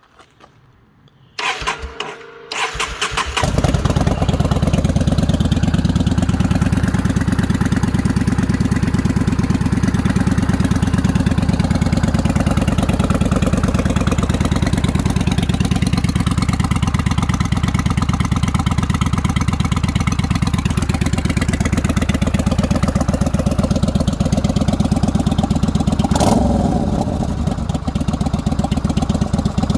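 Yamaha Bolt 950's air-cooled V-twin cranked over on the electric starter, catching about three seconds in and then idling steadily.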